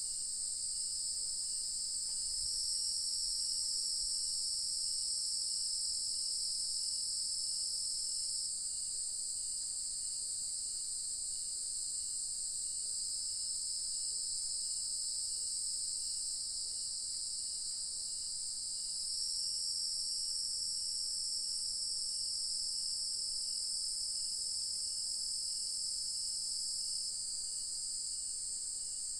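Dusk chorus of crickets and other insects: a steady, high-pitched trill. Twice a second layer swells in and holds for several seconds, and under it runs a faint, regular pulsing chirp.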